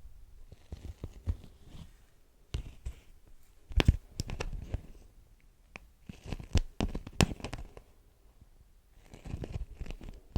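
Beeswax wrap crinkling and peeling in irregular bursts of crackling with short pauses between, plus a few sharper cracks.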